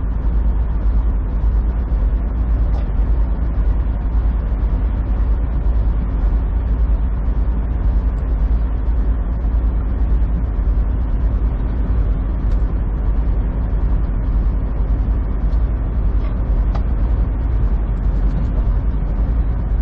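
Steady drone of a semi truck's engine and tyres on the road, heard from inside the cab while driving.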